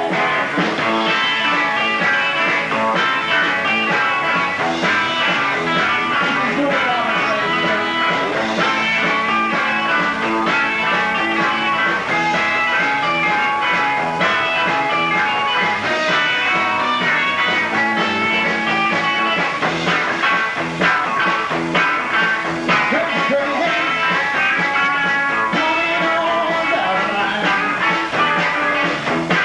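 Rock and roll band playing an instrumental break: a guitar lead over bass and drums, with no singing.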